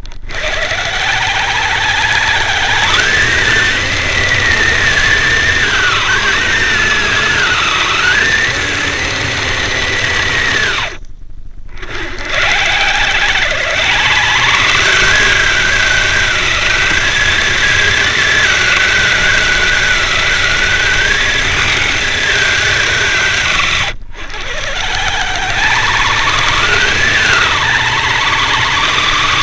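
Electric motor and gear drive of a Kyosho Blizzard SR radio-controlled tracked snow tractor whining, the pitch rising and falling as the throttle changes, with short breaks about 11 and 24 seconds in.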